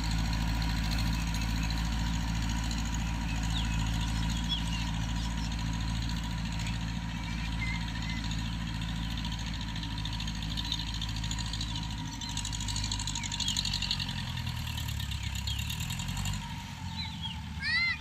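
Tractor engine running steadily under load, shifting in pitch about twelve seconds in and then dropping away near the end. Birds chirp briefly a few times.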